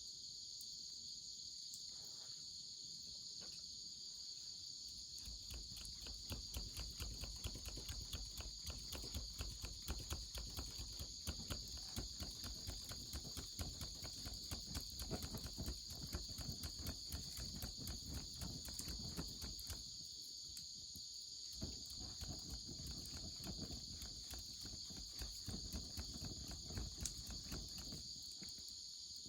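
A wood campfire crackling with many quick pops, thick for most of the stretch, easing off briefly about two-thirds of the way through and then picking up again, over a steady high chorus of insects.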